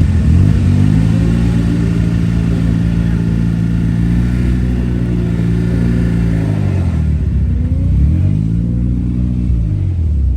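Car engine revved up and held at steady revs for several seconds, then dropping and revving up again. The clutch isn't engaging, so the revs aren't moving the car.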